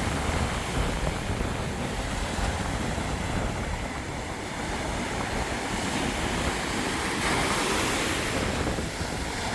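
Sea waves breaking and washing up on a sandy beach, with wind rumbling on the microphone. The wash swells briefly near the end.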